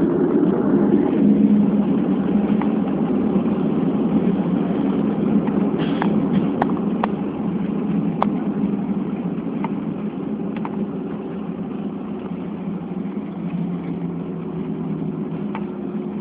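Airliner engines running with a steady rumble and a low hum, slowly getting a little quieter, with a few sharp clicks partway through.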